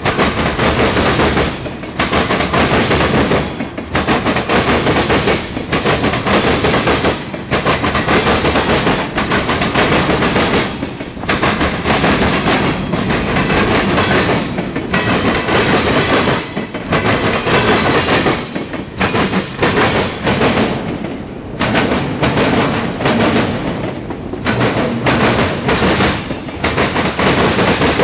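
Freight cars of a passing Norfolk Southern mixed freight train, covered hoppers and tank cars, rolling by close at hand: a loud, continuous rumble of steel wheels on rail with sharp bangs and clatter. The clatter repeats about every two seconds as each car goes by.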